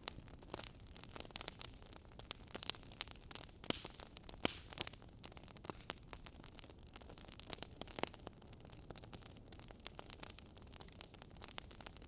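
Wood fire crackling in a fireplace: a faint hiss under irregular sharp pops and snaps, a couple of them louder, about four and a half and eight seconds in.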